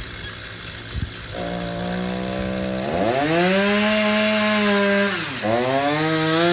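Chainsaw engine coming on about a second and a half in and running, then revved up about three seconds in, dropping briefly near five seconds before revving up again and holding.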